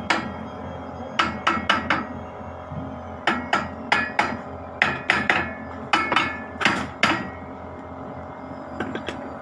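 Hammer blows on metal, about eighteen strikes in uneven quick groups, each leaving a brief ring.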